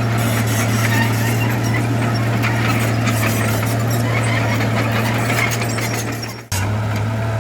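Bulldozer's diesel engine running steadily under load, with scattered squeaks and clanks from its tracks. The sound drops out for an instant about six and a half seconds in, then carries on unchanged.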